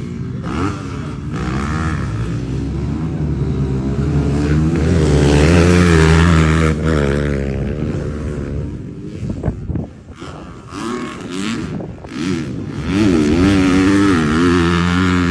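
Standard underbone motorcycle engine revving up and down as it is ridden hard. It is loudest about five to seven seconds in, drops away briefly around ten seconds, then revs hard again near the end.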